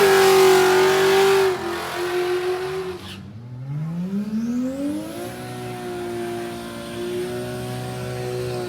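Drag-racing engines at full throttle: one held at high revs that falls away about one and a half seconds in, then another climbing in pitch for about two seconds as it accelerates, then holding high.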